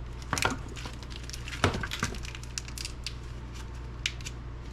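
A few light knocks and rustles from handling scrap wire and connectors at a workbench, over a steady low hum.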